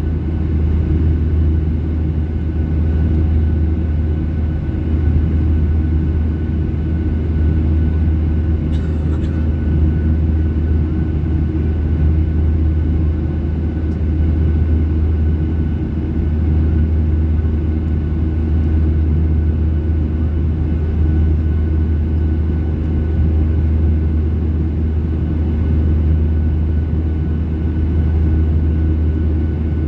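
Steady engine and airflow drone inside the cabin of a Boeing 737-800 airliner, a deep, even rumble with a faint steady hum above it.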